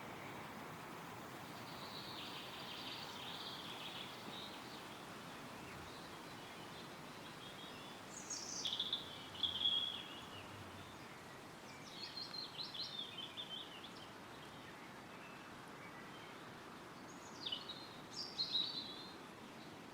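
Songbirds singing in short, high phrases over a steady rustle of wind in the trees. A scratchy chatter comes early, then the loudest phrase, a falling call about halfway through, then a quick run of notes, and two more falling phrases near the end.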